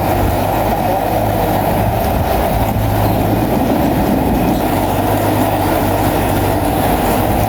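A bulldozer's diesel engine running steadily under load, with a constant low hum.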